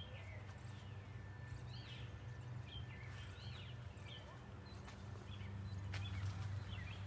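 Small birds chirping, a string of short rising-and-falling notes repeated every second or so, over a steady low hum.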